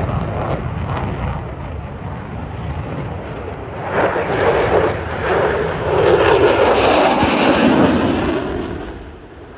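Military jet flying past with loud, crackling engine noise that builds from about four seconds in, peaks near the end, then fades away.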